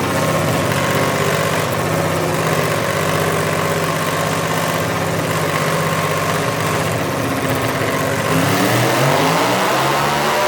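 Modified pulling garden tractor engine running at a steady idle, then revving up with a rising pitch about eight seconds in.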